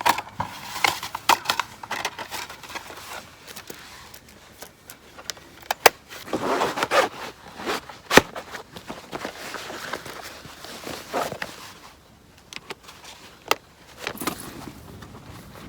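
Gear being handled by hand: an irregular run of clicks, light clatters and scrapes, with two sharp knocks about six and eight seconds in.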